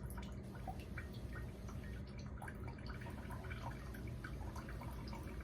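Bella Pro Series single-serve K-Cup coffee maker brewing: coffee trickling and dripping into a cup over the machine's steady low hum.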